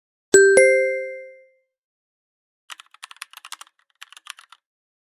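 A two-note chat-message notification chime, followed by two short spurts of rapid, quieter keyboard typing clicks, then the same chime again at the very end.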